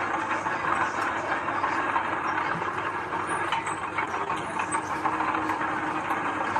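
Heavy diesel earthmoving machinery working, its engine running under a steady, dense metallic clatter.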